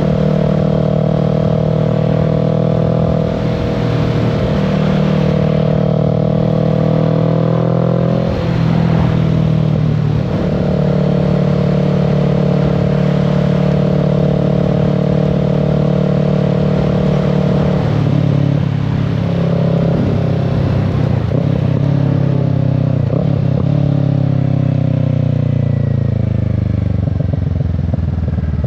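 Kawasaki Z650's parallel-twin engine and exhaust under way, holding a steady note. The note breaks briefly about a third of the way in, likely a gear change, then settles again. Near the end the revs fall steadily as the bike slows.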